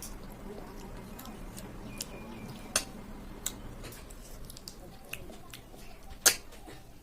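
Close-miked eating of snail curry: a handful of sharp clicks and taps over a low steady background, the loudest about six seconds in.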